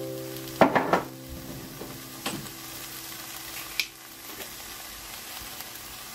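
Mixed vegetables sizzling steadily in a frying pan, with a few sharp knocks: a quick cluster about a second in, then single ones near two and a half and four seconds.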